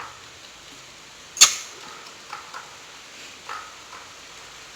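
A single sharp click about a second and a half in, followed by a few faint short knocks.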